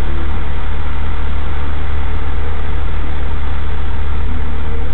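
Mitsubishi Lancer Evolution wagon's turbocharged four-cylinder engine idling steadily while the car stands still, heard from inside the cabin as a loud, constant low hum.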